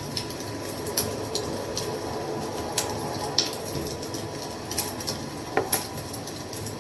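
Wood fire burning with a steady low rush and sharp crackling pops every second or so, two close together near the end.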